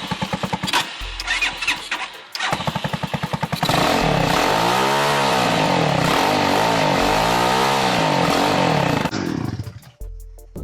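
A mini bike's small engine is started: it sputters in quick pulses for a few seconds, catches, and is revved up and back down twice before dropping away near the end.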